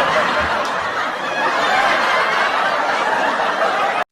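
A dense wash of laughter from many people at once, steady throughout and cutting off suddenly at the end.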